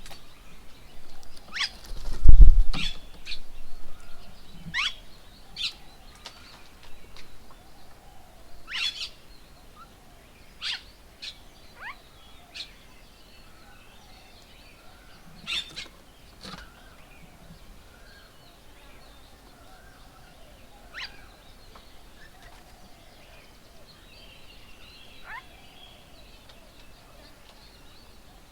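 Birds calling: scattered short, sharp calls, many falling in pitch, busiest in the first half and thinning out later. There is a loud low thump about two seconds in.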